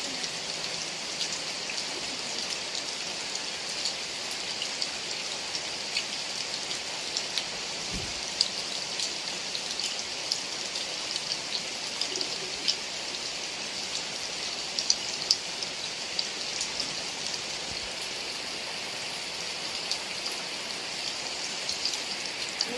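Heavy rain falling: a steady hiss with frequent sharp taps of single drops.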